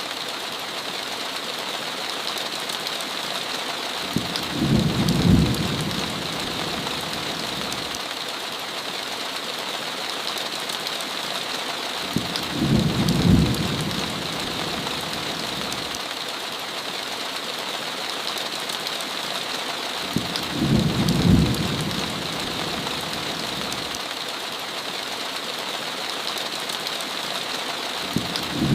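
Steady heavy rain hiss, with a short low rumble of thunder about every eight seconds, each lasting about a second.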